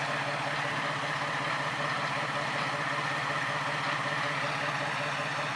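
Diesel railcar engine idling steadily with an even hum.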